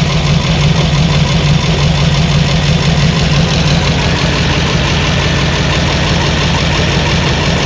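Car engine idling steadily, heard from underneath the car beside the exhaust pipes.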